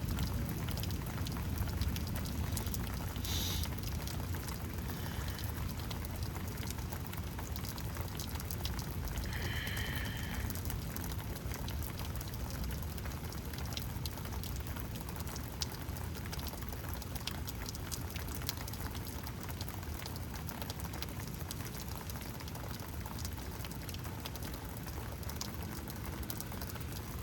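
Steady rain falling, with many scattered drips and taps.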